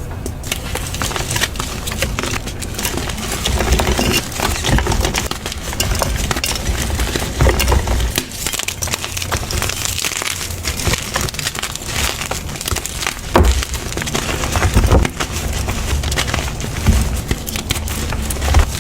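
Blocks of gym chalk being crushed and crumbled by hand, a dense crackling crunch of many small breaks, with a few louder crunches past the middle.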